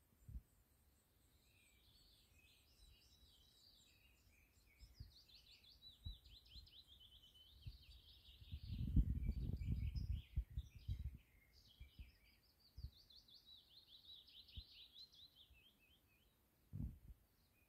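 Songbirds singing, with fast repeated trilling notes. A low rumble on the microphone for a couple of seconds about halfway through, and a short thump near the end.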